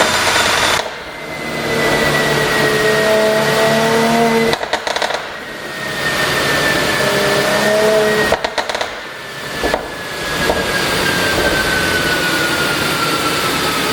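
Mercedes-AMG C43's twin-turbo V6 exhaust pulling hard twice. Each pull ends on lift-off in a quick string of pops and crackles from the pop-and-bang exhaust tune. Then it settles into steady running, with a thin whine slowly falling in pitch.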